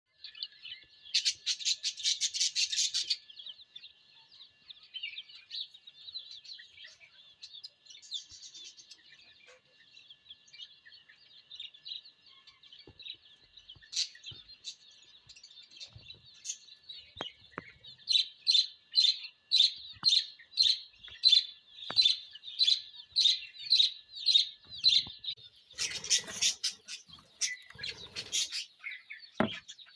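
Aviary lovebirds chirping continuously and shrilly. A loud harsh burst of calls comes near the start, and a run of loud, evenly spaced chirps, about two a second, comes past the middle. A brief rustling noise follows near the end.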